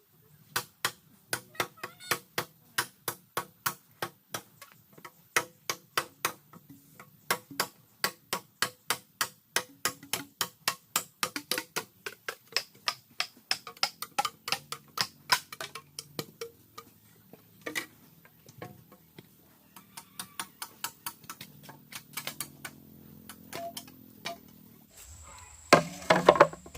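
A long series of sharp knocks, about four a second, like a blade or hammer striking wood or bamboo in quick repeated blows, with a louder clatter near the end.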